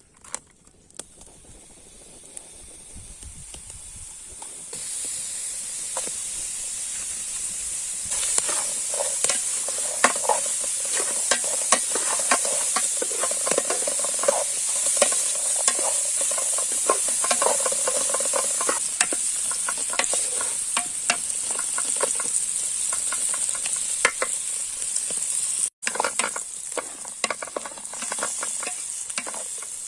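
Food frying in hot oil in a pan: a steady sizzle that builds over the first few seconds, overlaid with repeated clicks and scrapes of a utensil stirring it.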